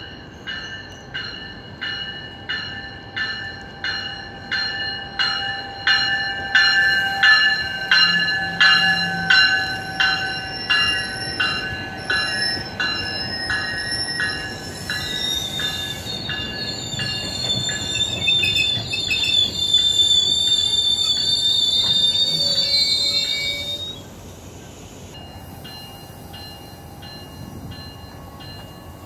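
GO Transit train's bell ringing about twice a second, growing louder as the cab car comes closer. High-pitched wheel squeal follows as the bilevel coaches pass and stops abruptly about 24 seconds in, leaving the quieter steady rumble of the coaches rolling by.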